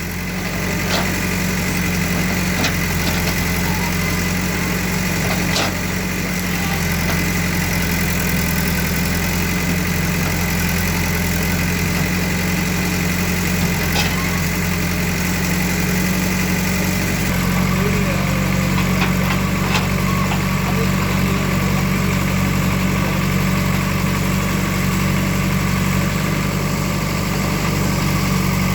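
A heavy machine's engine running steadily at a low idle, with a few scattered knocks, and a shift in its note about seventeen seconds in.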